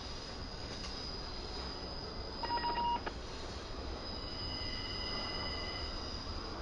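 Intermodal freight train cars rolling past on the rails, with thin high-pitched wheel squeal. About two and a half seconds in, a short steady beep lasting about half a second stands out above the rolling noise.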